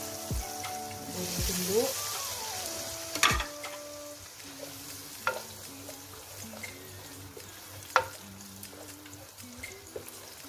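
Chili spice paste sizzling in oil in a wok as a wooden spoon stirs it, the sizzle strongest in the first couple of seconds, with a few sharp knocks of the spoon against the pan, the loudest about three and eight seconds in. A simple background melody plays underneath.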